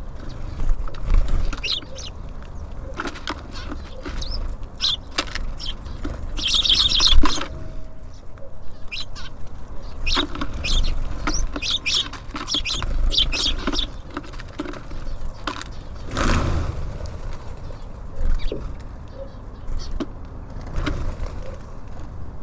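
Small songbirds at a feeder: short high chirps and calls scattered throughout, with wing flutters, over a steady low rumble. A louder burst of noise comes about sixteen seconds in.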